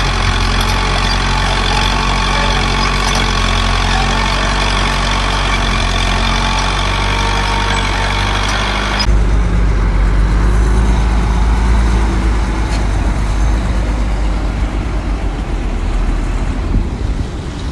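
Heavy diesel engines of earthmoving machinery (bulldozer and dump trucks) running steadily. About nine seconds in the sound changes abruptly to a deeper, duller rumble.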